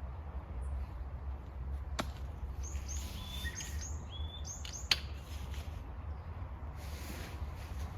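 Small birds chirping in a quick series of short, high notes. Two sharp clicks cut in, about two seconds in and the louder one near the middle. A steady low rumble runs underneath.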